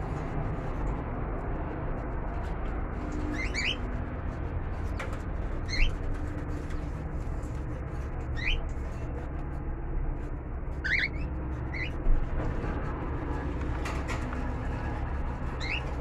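Small caged pet birds giving short, quickly rising chirps every couple of seconds, some in quick pairs, over a steady low background rumble.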